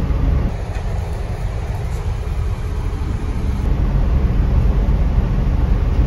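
Steady low rumble of a Toyota car idling, heard from inside the cabin with the driver's window down.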